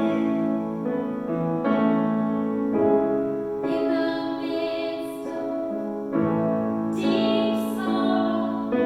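Piano music with held chords that change every second or so.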